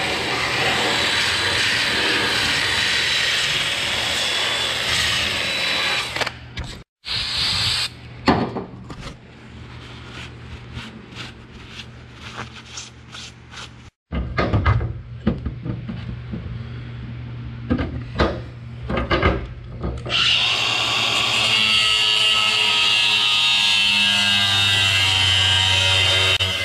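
Cordless drill spinning a sanding drum against the edge of a hole cut in a metal flatbed. Then a stretch of knocks and clinks as a bent metal pipe is handled, and near the end a Makita angle grinder cutting into the pipe with a steady high whine.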